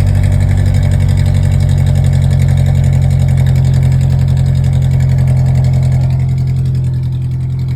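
Ford Ranger pickup idling steadily, heard at the exhaust, with its newly fitted exhaust tip leaking at the joint. Steady low exhaust pulsing, getting a little quieter near the end.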